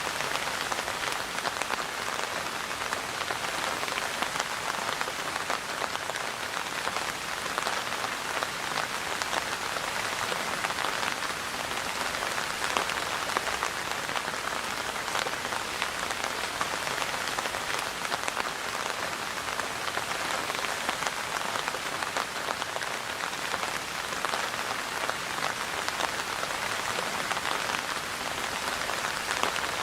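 Steady rain falling, an even hiss of many drops hitting a surface with no change in strength.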